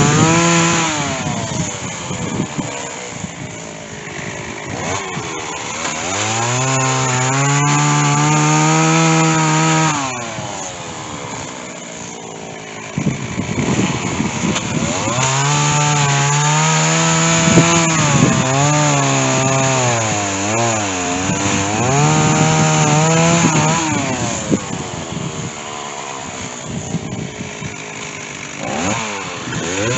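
Stihl two-stroke chainsaw cutting through white oak, revved up and held under load for a few seconds twice, dropping back between cuts. The chain is dull.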